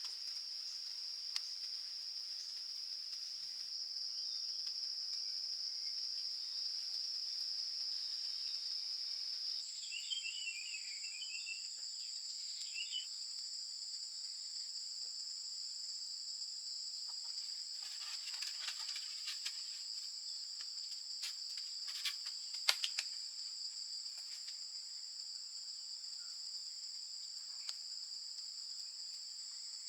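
Rainforest insects trilling continuously on a steady high pitch, with a second, higher trill joining about a third of the way through. A few short chirps come soon after, and a cluster of sharp clicks sounds in the middle.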